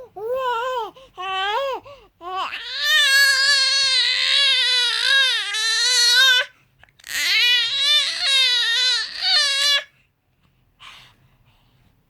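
A baby crying: a few short wails, then two long, wavering wails of about four and three seconds, stopping about ten seconds in.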